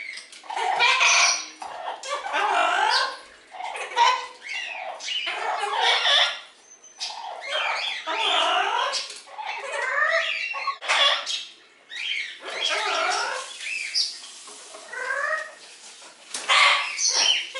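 Amazon parrots squawking and chattering: a string of short calls one after another, sliding up and down in pitch, with a few brief pauses.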